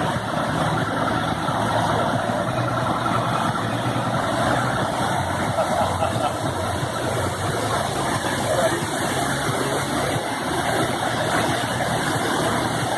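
Tour boat's engine running steadily, a low even hum under a wash of noise.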